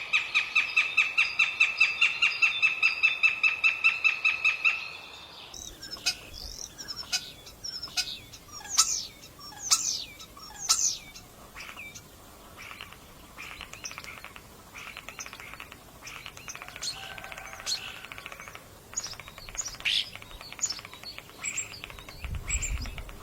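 Bird song: one bird repeats a fast, even series of clear notes, then after about five seconds gives way to several birds chirping with short sweeping calls.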